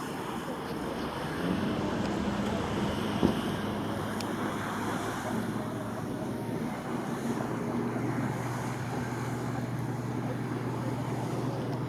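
Motorboat engine humming as the boat runs across the water, under steady wind noise on the microphone and lapping water. A single sharp knock a little past three seconds in is the loudest moment.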